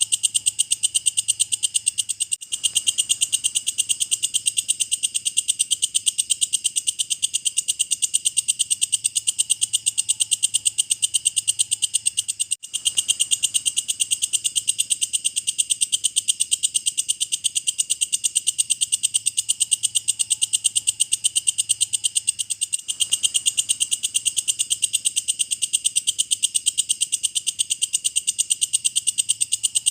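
Walang kecek katydid singing: a continuous, rapid high-pitched chirring, broken by brief gaps about every ten seconds.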